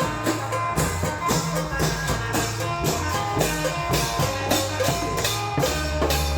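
Isan klong yao long-drum band playing: a steady beat of drums and percussion over a sustained bass line, with melodic tones held above it.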